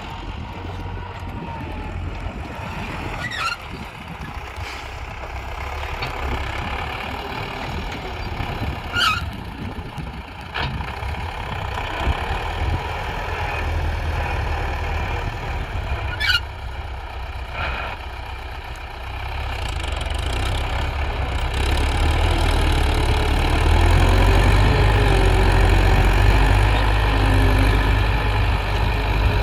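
Belarus tractor's diesel engine running steadily, getting louder about two-thirds of the way through, with a few brief high squeaks.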